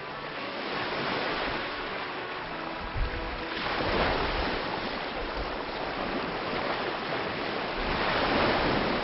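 Rushing water with wind noise and a low rumble, swelling up about four seconds in and again near the end.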